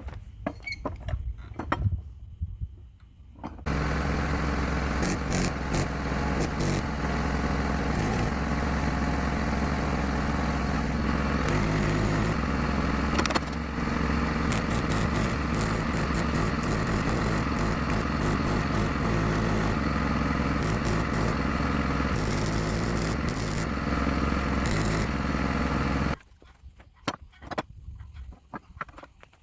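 A motor-driven machine runs steadily for about twenty seconds, cutting in and cutting off abruptly, with a few clicks and knocks before it starts and after it stops.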